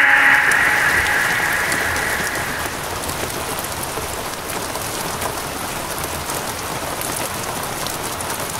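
Steady rain falling, an even hiss flecked with the ticks of single drops. A lingering high tone fades away over it during the first two seconds or so.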